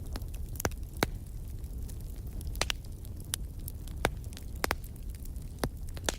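Fireplace fire crackling: sharp, irregular pops over a low, steady rumble.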